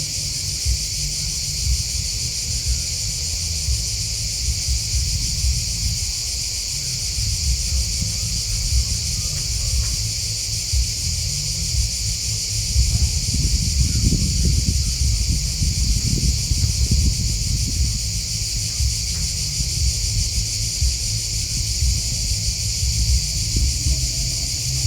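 Steady, high-pitched chorus of grasshoppers and crickets, with no break. Under it runs a low rumble that swells for a few seconds in the middle.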